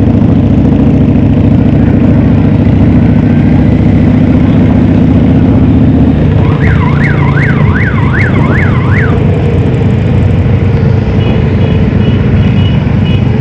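Motorcycle engines running loudly, with a fast up-and-down electronic siren sounding for about two and a half seconds in the middle.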